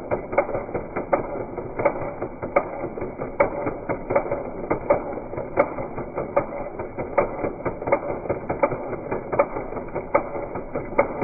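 An engine running with an uneven clatter of sharp knocks.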